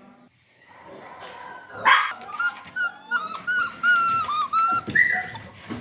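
Dogs barking and whining: one loud sharp bark about two seconds in, then a fast run of short, high, overlapping yelps and whines.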